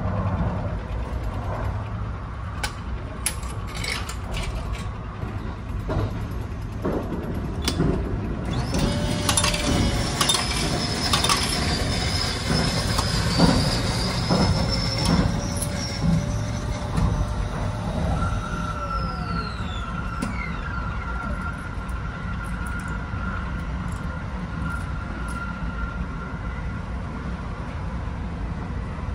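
Steady low rumble of the Kintetsu Hinotori express train running, with clicks and knocks early on from the clear cup door of a coffee vending machine being handled. In the middle comes a stretch of machine whirring with whining tones that hold, glide and fall away, followed by a thin steady tone.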